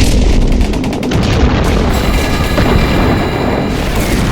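Fireworks going off: dense, rapid crackling with low booms, mixed with music.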